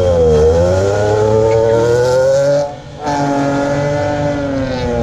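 A Nissan Z sports car's engine revving hard through its exhaust, its pitch climbing for about two and a half seconds. It cuts out briefly just before three seconds in, then comes back and holds steady near the top.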